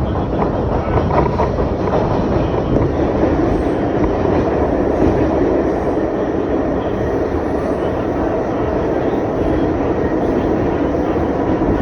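R62A subway car of a 4 train running at speed, heard from inside the car: a steady running noise of wheels on rail and motors that stays level throughout.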